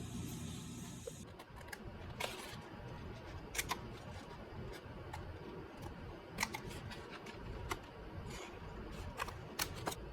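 Scattered sharp clicks and taps of small hobby tools handled at a scale-model workbench, about eight in all and unevenly spaced, over a low room hiss.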